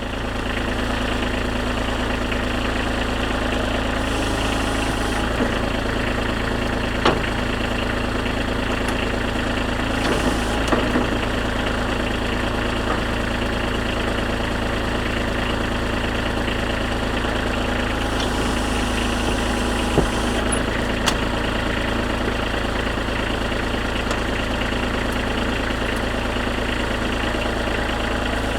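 Kubota B2320 compact tractor's three-cylinder diesel engine running steadily at idle, with a few sharp clicks or knocks standing out over it now and then.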